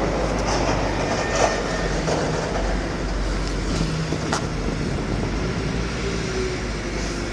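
After-hours construction work noise: a loud, steady low mechanical rumble with occasional sharp clanks, about one and a half and four and a half seconds in.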